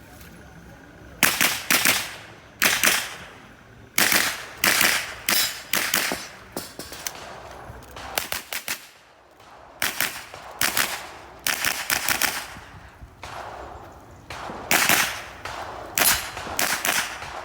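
A string of rapid .22 rimfire mini-rifle shots during a timed IPSC course of fire. Sharp cracks come singly and in quick pairs and runs, with short pauses between groups as the shooter moves between target arrays, and a longer gap about halfway through.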